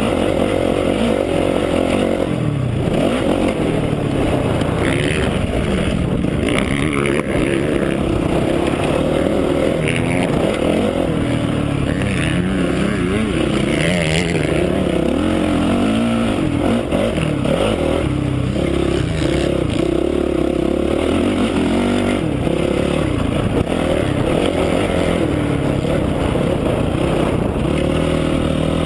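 A Honda CRF450R motocross bike's single-cylinder four-stroke engine under hard riding, revving up and dropping back repeatedly as the rider throttles on and off around the track.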